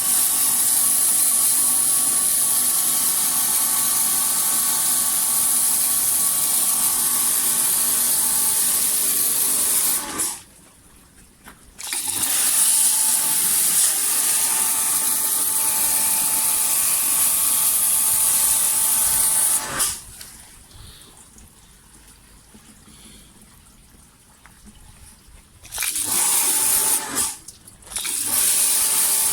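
Pressure washer spray gun rinsing an engine bay: a loud hiss of the water jet with the pump's steady whine under it, in bursts that stop when the trigger is let go. One long burst of about ten seconds, a second of about eight, then two short bursts near the end.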